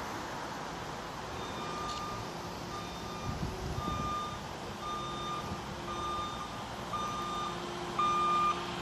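Backup alarm of a reversing vehicle or machine beeping about once a second, growing louder near the end, over a steady outdoor hiss.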